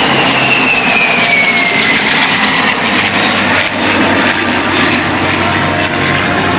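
Jet aircraft flying past, loud and steady, its engine whine falling in pitch over the first two seconds as it goes by.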